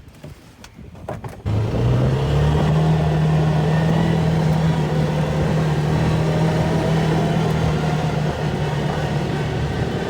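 A vehicle engine picks up speed about a second and a half in, its pitch rising briefly, then runs at an even pitch.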